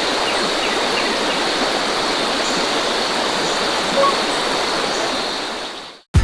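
Rushing water of a mountain stream, a steady hiss of flowing water that fades out near the end.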